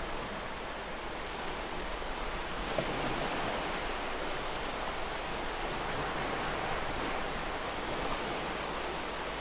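Ocean waves breaking and washing on a shore, a steady rushing hiss that swells a little about two and a half seconds in.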